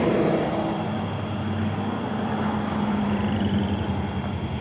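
A motor vehicle's engine running steadily, a low hum, with the tail of a passing vehicle fading away at the start.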